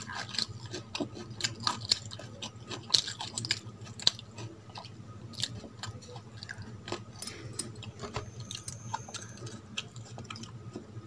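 Close-miked wet chewing: irregular mouth clicks and smacks of a person chewing soft rice and curry, over a low steady hum.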